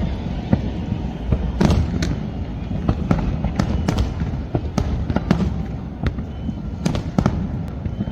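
Fireworks display: an irregular rapid series of sharp cracks and bangs from bursting shells, a dozen or more, over a constant low rumble.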